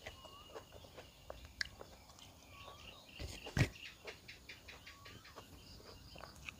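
Close mouth sounds of chewing a hand-fed mouthful of rice and vegetables: small wet clicks and one soft thump about three and a half seconds in. Behind them, a bird repeats a short rising-and-falling whistle every second or two.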